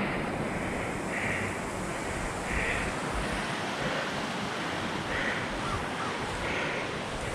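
Wind buffeting the microphone over the steady rolling rush of a fat bike's studded tyres on snow and ice. A soft hiss repeats about every second and a quarter.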